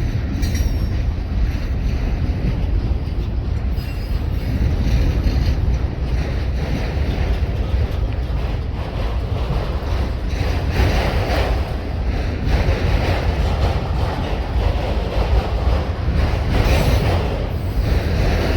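Train rolling past at trackside: a steady, loud rumble of railcar wheels on the rails, with a few faint high wheel squeals in the first few seconds. Wind is buffeting the microphone.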